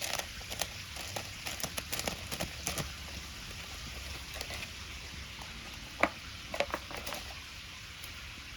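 Wood fire crackling: irregular sharp pops and snaps over a low steady hiss, with one loud crack about six seconds in.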